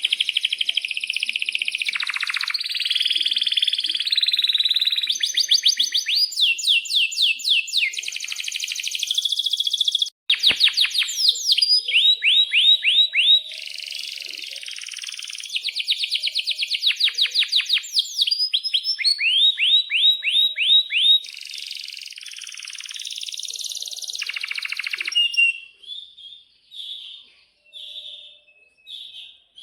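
Domestic canary singing a long, vigorous high-pitched song of rapid trills and rolling runs of repeated notes. The song breaks off briefly about ten seconds in, and after about 25 seconds gives way to short separate chirps.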